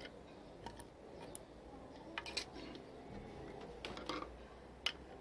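Faint, irregular clicks and light taps, about a dozen scattered through, from small hard parts of a car side mirror being handled and fitted by hand.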